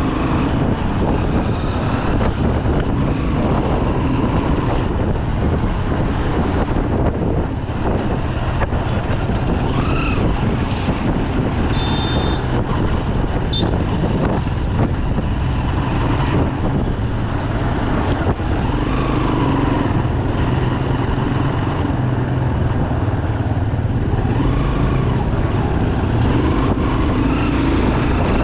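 Bajaj Pulsar 200 motorcycle's single-cylinder engine running steadily under way through city traffic.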